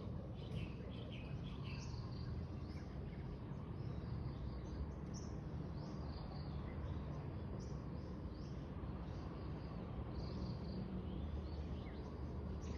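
Birds chirping and calling, many short high chirps scattered throughout, over a steady low background rumble.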